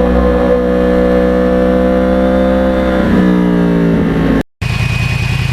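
2009 Yamaha R1's crossplane inline-four running through a custom-built exhaust, holding a steady pitch under way, then dropping in pitch about three seconds in. After a momentary break near the end it gives a lower, evenly pulsing rumble with a faint steady whine.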